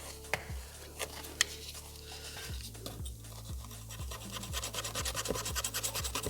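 Background music with a steady beat, with quick scratching and rubbing of a knife working around a plastic door panel; the scratching gets denser in the last couple of seconds.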